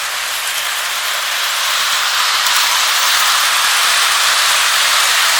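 Lionel O scale train running on its track: a steady rushing hiss of wheels rolling on the rails, growing a little louder toward the end.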